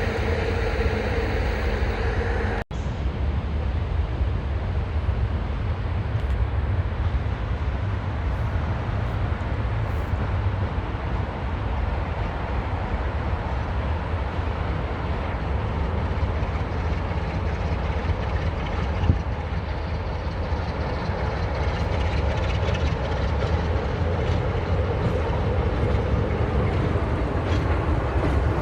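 Train running through a railway station: a steady low rumble of the wheels and running gear on the rails. A steady hum with several tones in the first few seconds gives way to a short break in the sound just under three seconds in, after which the rumble carries on.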